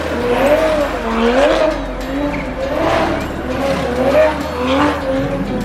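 Car engine revving up and down over and over, with tires squealing, as a car spins donuts. The engine pitch rises and falls about once a second.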